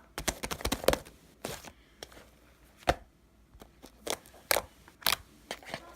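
Slime being squeezed and pressed by hand, giving sharp pops and clicks as air pockets burst: a quick run of them in the first second, then single pops every half second or so.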